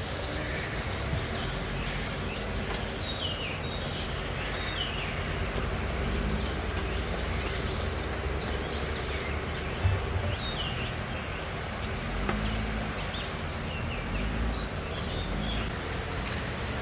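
Small birds chirping over and over, short high notes scattered throughout, over a steady outdoor rushing background noise. One brief low knock about ten seconds in.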